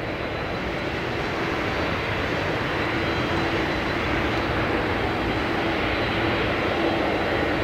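Boeing 777-200ER jet engines on final approach, a steady rushing roar that grows slowly louder as the airliner comes nearer.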